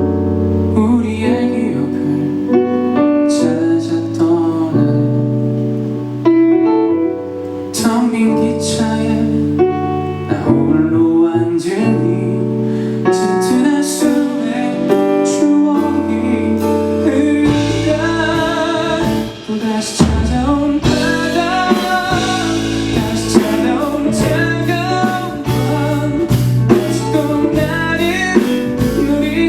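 Live ballad performance: a male singer sings over guitar and keyboard accompaniment, and the band fills out with a deeper bass a little over halfway through.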